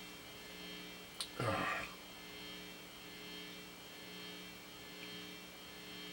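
Steady electrical mains hum. A sharp click comes about a second in, followed by a short noisy sound of about half a second.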